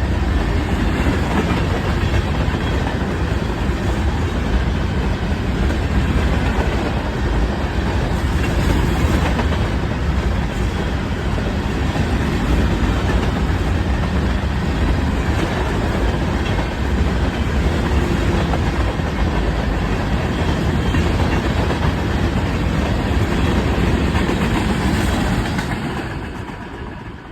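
Fast Union Pacific freight train passing, its cars rolling by with a steady, loud clatter of wheels on the rails, fading away near the end.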